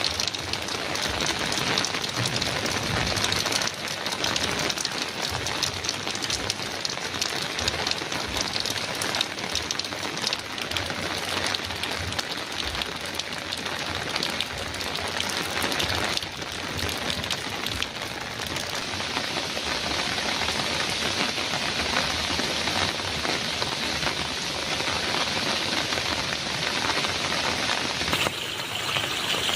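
Heavy rain falling steadily on a metal roof, a dense hiss of many drop impacts. Near the end the sound shifts to a slightly different, duller rain.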